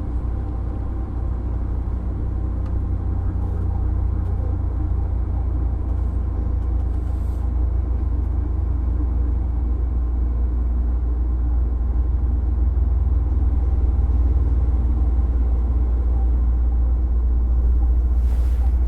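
JR East 205-series electric train motor car running, its MT61 open-fan traction motors and wheels on the rails giving a steady low rumble with faint motor tones, growing gradually louder. A couple of brief hisses come near the end.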